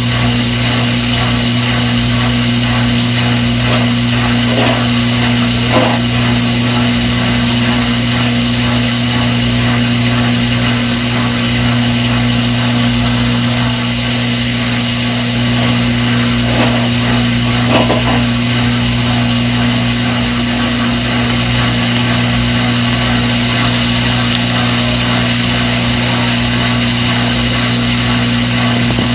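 Front-load washing machine running, a steady motor hum under an even churning noise, with a couple of faint clicks.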